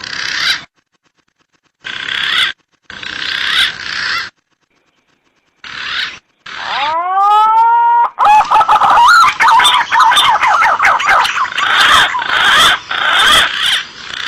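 Green pigeon (punai) calls from an edited hunting-lure recording. Short bursts of calls come with silent gaps between them; about six and a half seconds in there is a rising whistle, and then a continuous run of overlapping calls.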